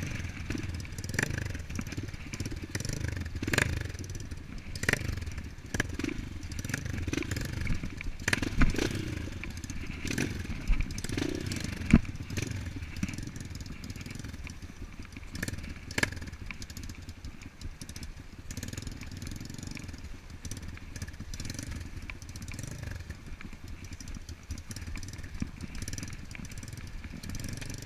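Off-road dirt bike engine running continuously with its level rising and falling, and a scatter of sharp knocks and clatter throughout.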